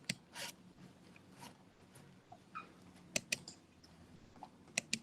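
Faint room tone with a few sharp clicks, two close together about three seconds in and two more near the end, and a couple of soft rustles.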